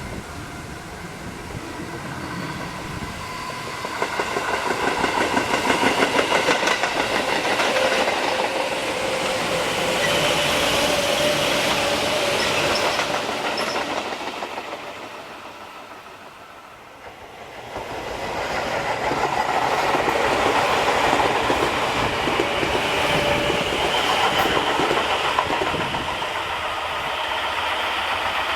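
Tobu Noda Line electric commuter trains passing close by, twice: one swells up about four seconds in and fades near the middle, then a second passes, each with a steady motor whine over wheels clacking on the rail joints.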